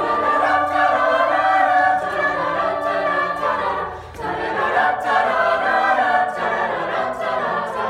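Choir singing sustained chords in two long phrases, with a short break about four seconds in.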